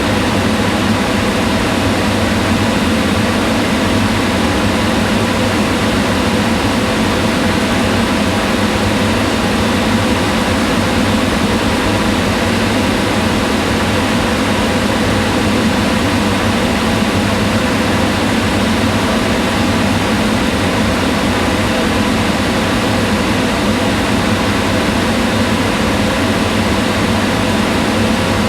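Kitchen range hood fan running steadily, a constant whooshing hum of moving air with a faint steady motor tone.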